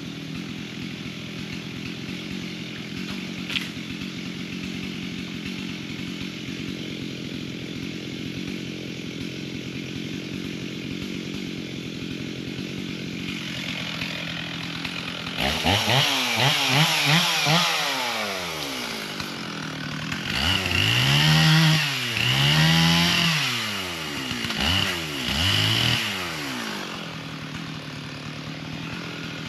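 Chainsaw idling steadily. About halfway through it is revved up and down several times, the pitch rising and falling with each rev, as when cutting through fallen trees.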